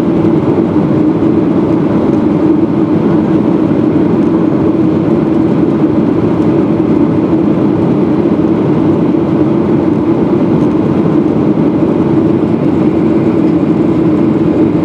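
Boeing 737-700's CFM56 jet engines running steadily after takeoff: a constant loud drone with a steady low hum.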